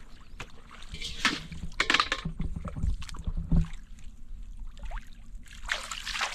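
Water splashing and sloshing in a few irregular bursts, with low knocks around the middle.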